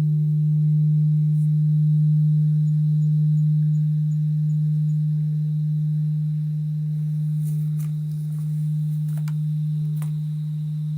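Japanese temple bell (bonshō) humming after a strike: one deep sustained tone that wavers slowly in loudness as it rings on. Faint quick bird chirps come in the first half, and a few sharp clicks come near the end.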